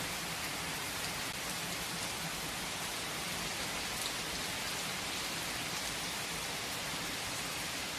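Steady rain falling, a dense even hiss with many small droplet ticks and no change in intensity.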